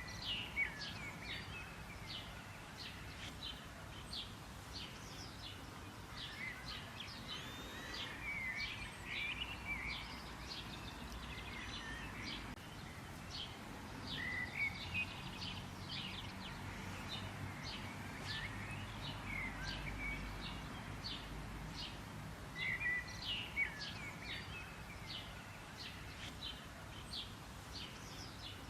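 Many small birds chirping and twittering, a dense chorus of short, high chirps with no break, over a low, steady background rumble.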